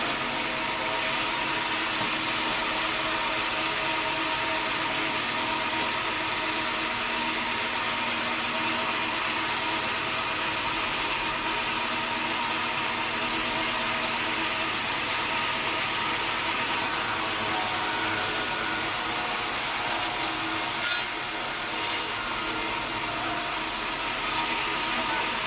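Sawmill machinery running steadily: a continuous mechanical hum with a hiss over it and a brief dip about three-quarters of the way through.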